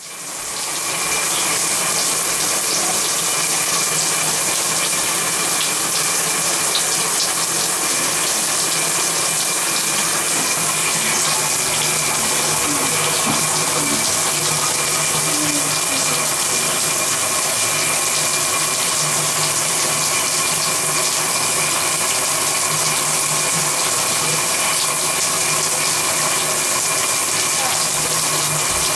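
Shower spray running steadily with a loud, even hiss, over a steady hum.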